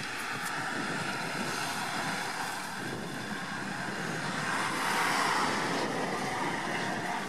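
An off-road 4x4's engine running hard on the competition course, growing louder to a peak about five seconds in and then easing off.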